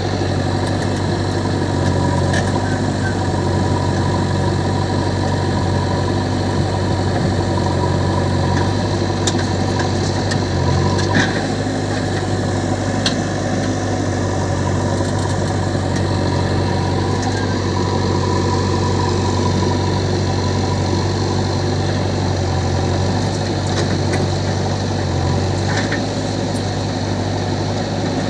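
Heavy diesel engine running steadily at a low, even speed, its pitch shifting slightly now and then, with a few light clicks and knocks over it.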